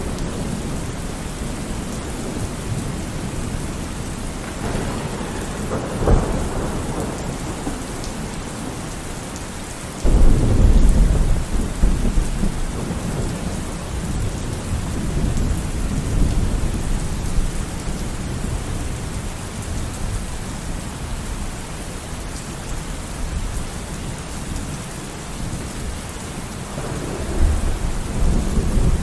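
Steady heavy rain with rolling thunder: a rumble builds about five seconds in, a sharp loud thunderclap breaks about ten seconds in and rolls on for several seconds, and another rumble rises near the end.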